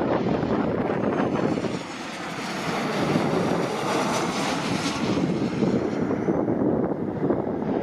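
Jet airliner's engines as it flies past. The high whine swells to its loudest about halfway through, then fades.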